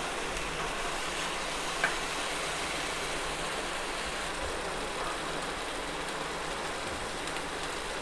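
Thick masala gravy sizzling steadily in oil in a kadhai, with one light tick about two seconds in. The oil separating out of the paste is the sign that the masala is almost cooked.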